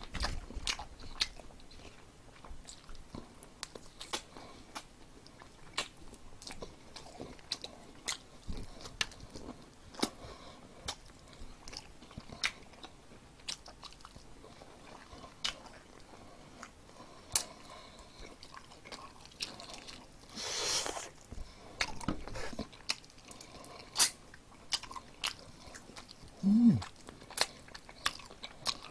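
Close-up chewing of crispy perilla-leaf fried chicken, with sharp crunches of the batter scattered irregularly throughout. A short breathy rush comes about two-thirds through, and a brief low hum with falling pitch near the end.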